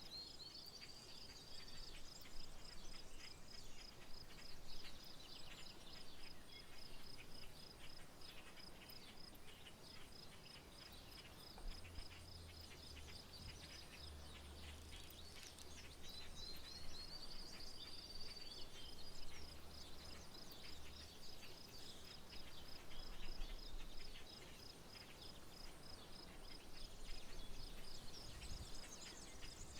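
Outdoor rural soundscape: a steady, rapid pulsing trill of insects, with birds chirping and a rising call heard twice, about a second in and again about sixteen seconds in. A faint low hum comes in midway for several seconds.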